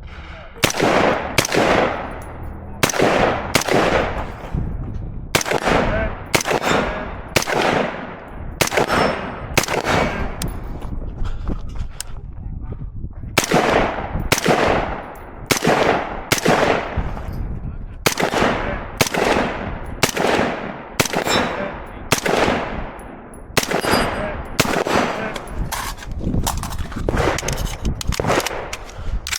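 Rifle fire during a timed competition stage: a long string of rapid shots, roughly one to two a second, each followed by a ringing echo tail. There is a pause of about a second and a half near the middle.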